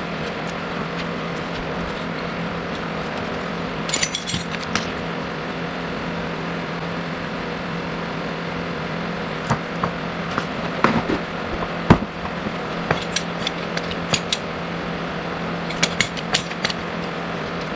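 Light metallic clinks and clicks of hand tools and puller parts, scattered and irregular, over a steady hum.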